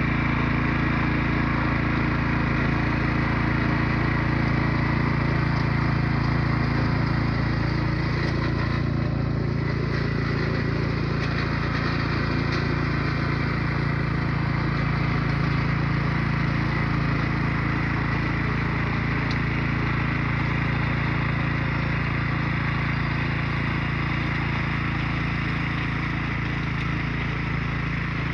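A newly fitted small engine running steadily at a constant speed, with an even low hum and a rattly hiss over it.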